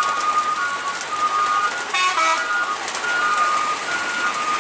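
Truck's electronic reversing alarm beeping in two alternating high tones over the steady noise of rain and traffic, with a brief higher-pitched sound about two seconds in.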